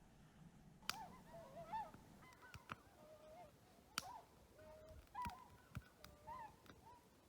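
Faint, repeated short bird calls that waver in pitch, with sharp crackles and pops from wood burning in a small wood stove.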